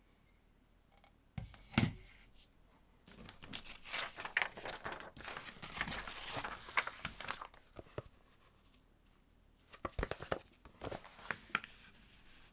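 Hands handling small plastic LEGO parts: a sharp click, then a few seconds of crinkling rustle, then a quick run of clicks near the end.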